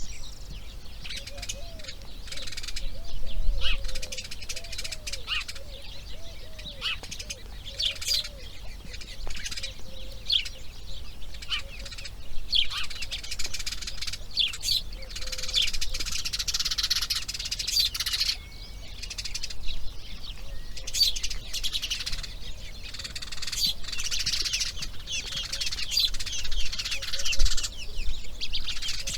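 Wild birds chirping and singing in a dense, overlapping chorus of short high notes and trills throughout. Faint low curved calls sound beneath them in the first third.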